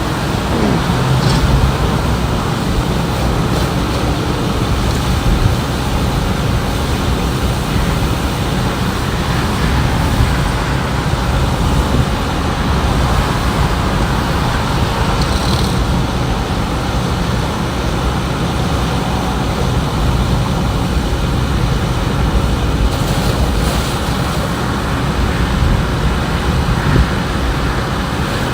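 Steady highway traffic noise, with a vehicle passing and falling in pitch about a second in.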